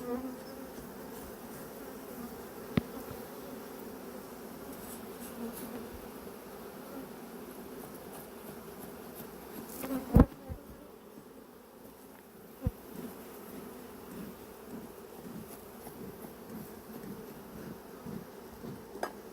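Honeybees swarming around an opened hive, a steady, dense buzz of many bees that have "gone crazy", agitated by the hive being opened. A sharp click about 3 seconds in, a louder thump about 10 seconds in and another knock near 13 seconds.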